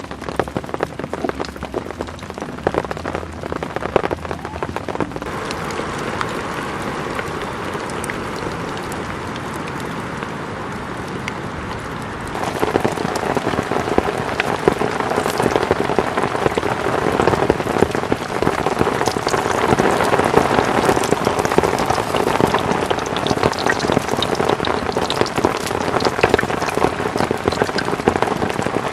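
Heavy rain drumming on a tent, a dense patter of individual drop hits. About twelve seconds in it abruptly gets louder and stays so.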